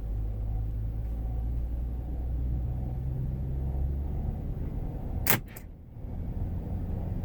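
2007 Chevrolet Tahoe's 5.3-litre V8 running while driving, heard inside the cabin as a steady low drone; this is the engine noise the owner is documenting. A sharp double click about five seconds in, followed by a brief dip in level.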